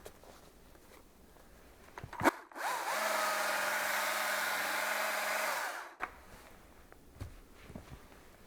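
Electric drill motor spinning up, running steadily for about three seconds, then stopping, with a sharp click just before it starts. Faint knocks follow.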